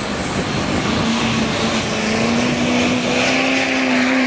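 Modified diesel pickup engine running hard under load while pulling the sled, its pitch slowly rising. A high turbocharger whistle climbs over it and then holds.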